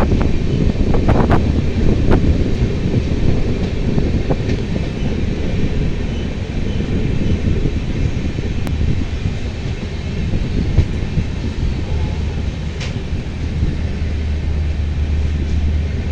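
A train running at a station, a loud, steady low rumble with a few sharp clicks in the first couple of seconds.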